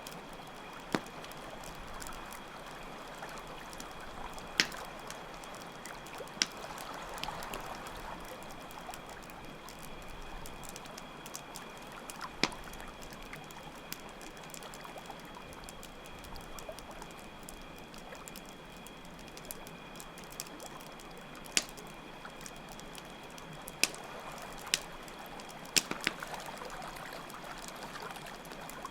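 Layered campfire-and-stream ambience: water trickling steadily, with sharp pops from a crackling campfire, about eight spread through, over a steady high chirr of crickets.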